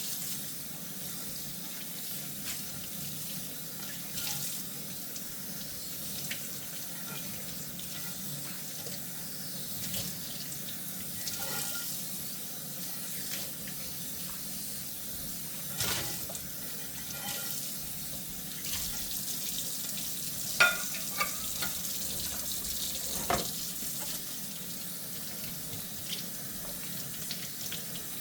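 Kitchen tap running steadily into a sink while dishes are washed by hand, with scattered light clinks and knocks of dishware, a couple of them ringing briefly about two-thirds of the way through.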